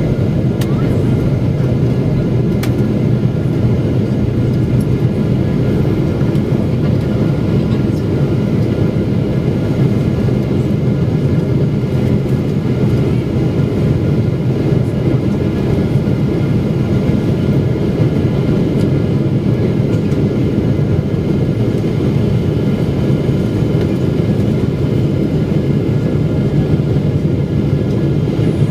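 Steady cabin drone of a Boeing 777-300ER on approach: the GE90 turbofans and the airflow heard from inside the passenger cabin, a low hum with faint steady tones above it.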